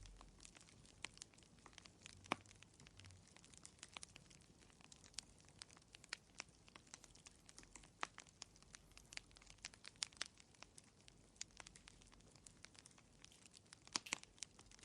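Wood fire crackling in a fireplace: quiet, irregular sharp pops and snaps, with a few louder pops about two seconds in and near the end.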